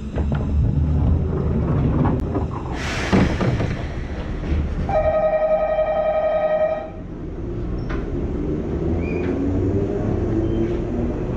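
Enoshima Electric Railway train running, a steady rumble of wheels on the rails heard from inside the car. About halfway through, a single steady horn blast lasts about two seconds, and a brief loud rush of noise comes about three seconds in.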